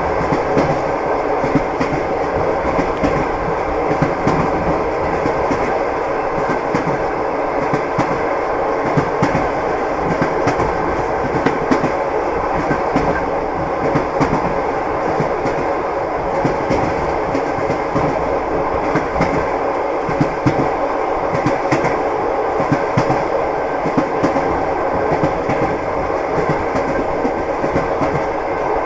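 Train wheels clacking over rail joints: a steady rumble of a moving train with frequent, irregular clicks and knocks.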